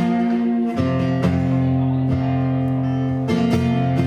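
Acoustic guitar strumming ringing chords in a short instrumental break of a country-rock song, with the chord changing about a second in and again near the end.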